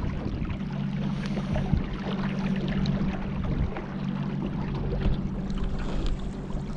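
A boat's motor running steadily with an even low drone, over a constant wash of water and wind noise with small splashes.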